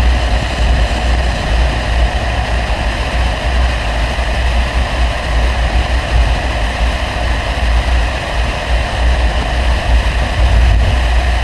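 Audi 100 2.3 quattro's five-cylinder engine and aftermarket CAC exhaust, heard from inside the car, droning deep and steady while driving at an even speed with no revving.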